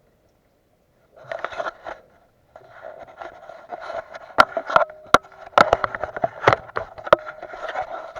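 Handling noise from a plastic fuel can with a push-button spout: irregular sharp clicks, knocks and scraping as the spout is pressed and the can is wrestled with, without pouring. It starts after about a second of silence, with a brief cluster of clicks, then runs busily from about two and a half seconds in.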